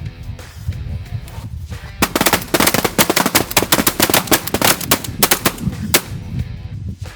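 Volley of shotgun fire from several hunters, many shots in quick succession over about four seconds, starting about two seconds in. Before the shooting, snow geese are calling, and wind rumbles on the microphone throughout.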